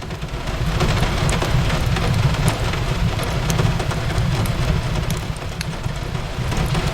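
Steady rain on a window mixed with a crackling fireplace: a dense hiss over a low rumble, broken by scattered sharp crackles and pops from the fire.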